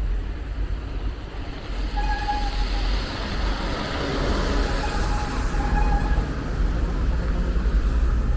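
Street traffic: a vehicle passes close by, its noise swelling over a couple of seconds and fading again, over a steady low rumble.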